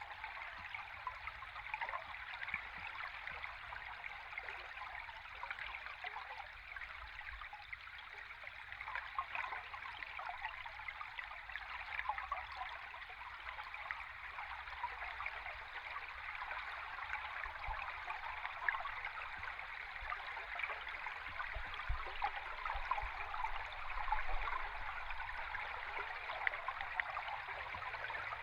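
Stream water flowing, heard underwater: a steady rushing with many fine crackles and bubbles and a faint low rumble beneath.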